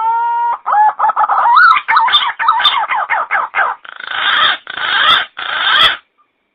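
Pink-necked green pigeon (punai gading) call used as a bird lure: the end of a long whistle, then a quick run of wavering, warbling whistled notes, closing with three harsh, hoarse notes.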